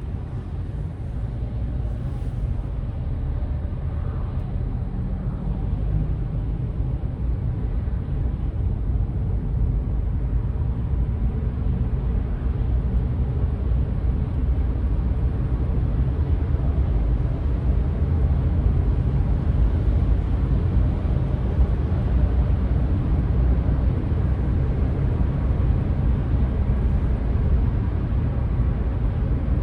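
Steady low rumble of road and engine noise from a car being driven, growing slowly louder.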